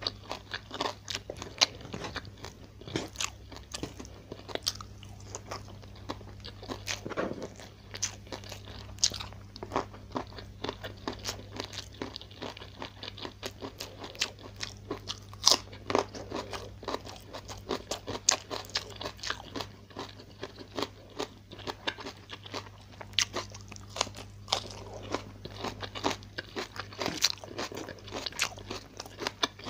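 Close-miked mouth sounds of a man chewing a meal of fried tilapia, petai beans, stir-fried bok choy and rice, with frequent irregular crunches and wet smacks, several a second, over a steady low hum.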